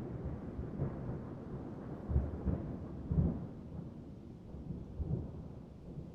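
Thunder rumbling low in a rainstorm, swelling in several rolls about two and three seconds in and again around five seconds, then dying away near the end, with rain beneath.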